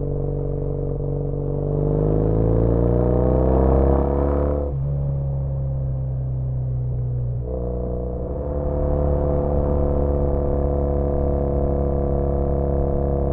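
Motorcycle exhaust of a 2013 Triumph Bonneville T100 air-cooled 865 cc parallel twin through British Customs Sleeper Pro mufflers, ridden on the road. The engine climbs in pitch for a few seconds, drops sharply, then picks up again and runs steady.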